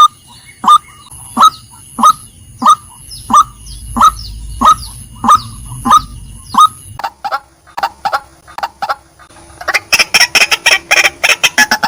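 Female white-breasted waterhen calling: a steady series of loud, short notes about one and a half a second, then quicker, fainter notes, breaking into a rapid, loud run of calls about ten seconds in.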